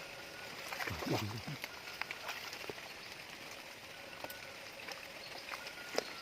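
Steady hiss of rain and stream water, with scattered small splashes and clicks. A short voice sound comes about a second in.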